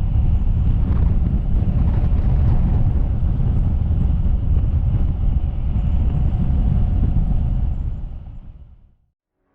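Loud, steady low rumbling noise that fades out about eight seconds in.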